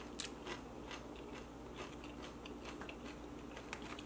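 Close-miked chewing with the mouth closed: a string of soft, irregular wet mouth clicks.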